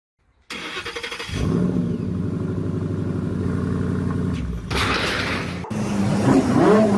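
A Ford Mustang Boss 302's V8 starts about half a second in: a brief stuttering crank, then it catches and settles into a steady idle, with one short burst of revving. Then, abruptly, a Lamborghini Aventador's V12 revs in quick blips, its pitch rising and falling.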